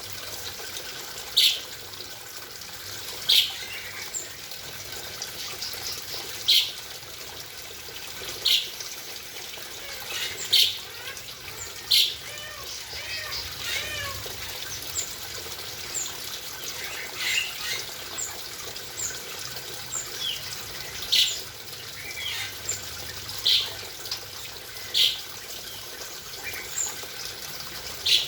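Aviary birds calling over a steady hiss of running water where they are bathing: a sharp, loud high chirp comes every couple of seconds, with softer chirps and a short spell of warbling twitter in the middle.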